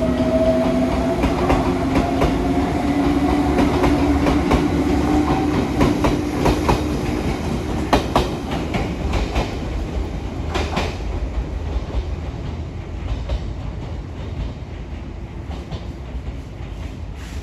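Izukyu 2100 series electric train pulling out and accelerating past: a hum from its drive slowly rises in pitch over the first several seconds, wheels clack over rail joints around the middle, and the sound fades as the train draws away.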